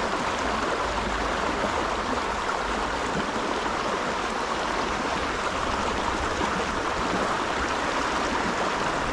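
Steady rushing of a flowing trout stream's water.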